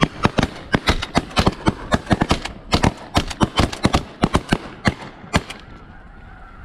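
Rapid volley of shotgun blasts from several hunters firing at once, about twenty shots in five seconds, stopping suddenly; goose honking is heard around it.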